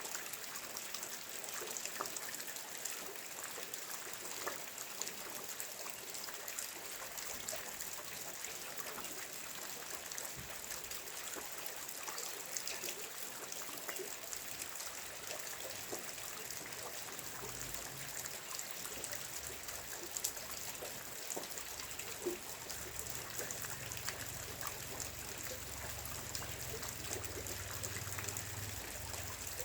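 Steady rain falling, with many small drop ticks and water trickling. A low rumble joins in about a third of the way through and grows stronger in the second half.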